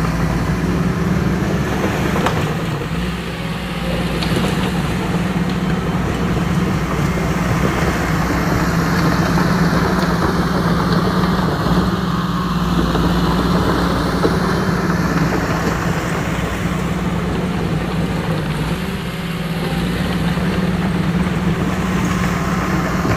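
A steady, engine-like mechanical drone with a strong low hum that runs without a break.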